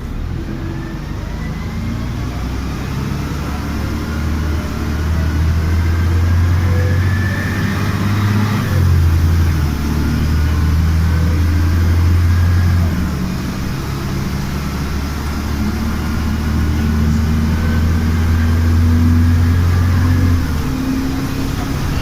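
LiAZ-5256 city bus under way, heard from on board: a strong low engine drone through long stretches of acceleration, changing step about nine, thirteen and twenty seconds in, with a fainter whine above it that rises slowly with speed.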